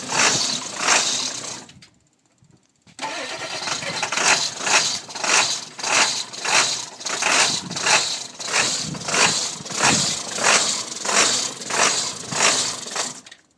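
Ford 7.3 L Powerstroke V8 turbodiesel being cranked by its starter without catching, in a steady rhythmic chug. It cranks briefly, stops about two seconds in, then cranks again for about ten seconds. This is a cold hard start caused by a bad glow plug relay.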